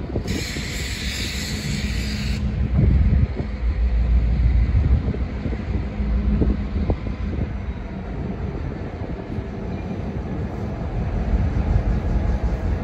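CSX diesel-electric freight locomotives approaching, a steady low engine rumble and hum that grows louder toward the end. A short burst of hiss lasts about two seconds near the start.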